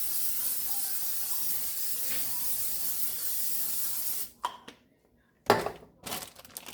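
Pancake batter sizzling in a hot greased pan: a steady high hiss that cuts off suddenly about four seconds in. A few sharp knocks follow, loudest about a second and a half later.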